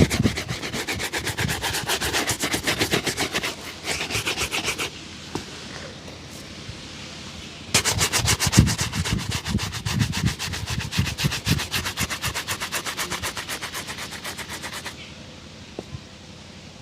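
A shoe being brushed in quick, even back-and-forth strokes, making a rapid scratchy rhythm of several strokes a second. It pauses for about two seconds in the middle, then brushes again until a couple of seconds before the end.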